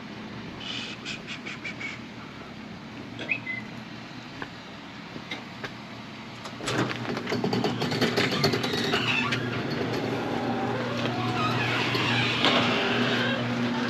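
Garage door opener starting about seven seconds in: a steady motor hum with the door rattling as it rolls up.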